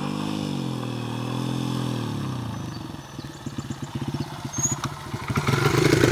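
Honda XR100 dirt bike's single-cylinder four-stroke engine. The engine note rises and falls in pitch, then settles into a choppy, uneven low running for a few seconds, and revs up louder near the end.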